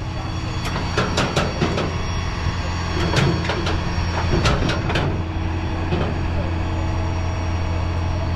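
A vehicle engine idling steadily, with a run of sharp metallic clanks and knocks over the first five seconds.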